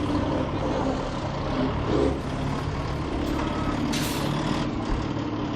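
Big diesel rally trucks' engines idling steadily, with a short sharp hiss of air about four seconds in.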